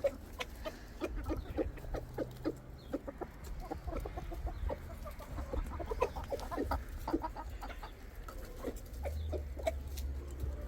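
Chickens clucking in a rapid run of short calls, the rooster among them giving his food call that tells the flock there is food.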